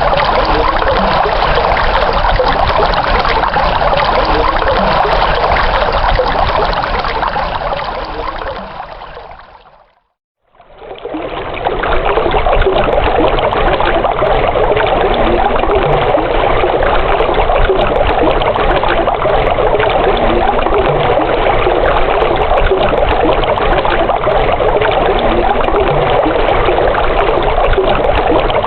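Running water flowing steadily. It fades out to silence about ten seconds in, then fades back in and continues.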